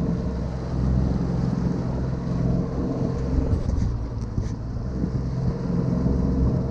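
Small motor driving a kayak, running with a steady hum under wind and water noise.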